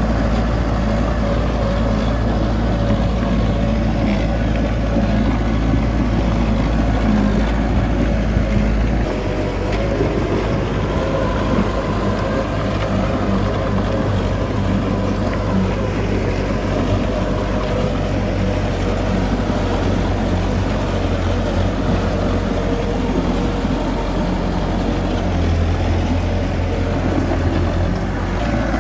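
Heavy diesel earthmoving machinery running steadily, a low engine rumble with its note shifting about nine seconds in.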